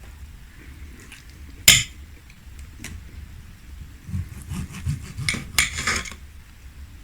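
Cutlery clinking and scraping against a plate: one sharp clack about two seconds in, then a cluster of knocks and scrapes in the second half.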